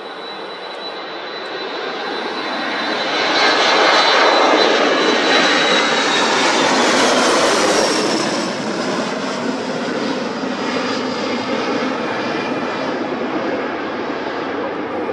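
Jet2 Boeing 737 taking off, its jet engines at takeoff power. The roar builds to a peak about four seconds in, and a high engine whine drops in pitch as the aircraft passes, before the roar eases off.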